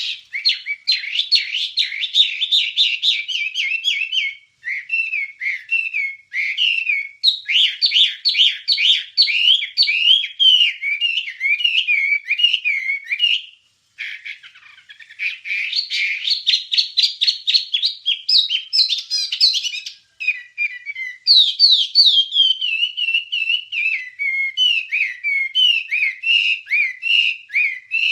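Wambie songbird singing a long, fast song of rapid high chirps and short falling notes, delivered in several phrases with brief pauses between them.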